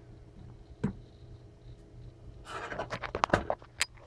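Hands handling plastic toys and packaging: a single knock about a second in, then rustling and several sharp clicks in the last second and a half.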